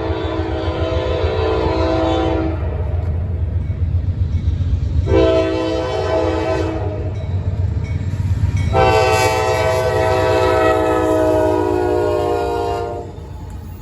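Norfolk Southern freight locomotive air horn sounding three blasts over the steady low rumble of a passing train. The first blast ends about two and a half seconds in, a shorter one comes about five seconds in, and a long one starts about nine seconds in. The rumble eases off near the end.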